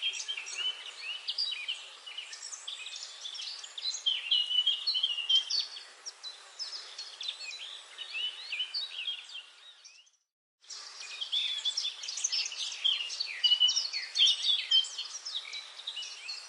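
Many small birds chirping and trilling at once in a dense forest chorus, over a steady background hiss. About ten seconds in, all the sound cuts out for a fraction of a second, then the chorus resumes.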